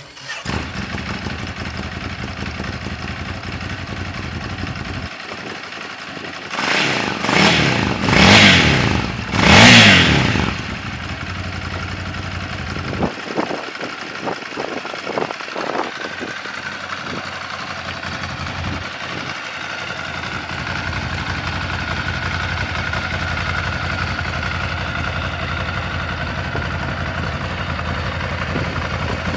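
Ducati Scrambler Full Throttle's 803 cc air-cooled L-twin starting and idling, then revved three times with rising and falling pitch, the third the loudest. A few quick throttle blips follow, and it settles back to a steady idle.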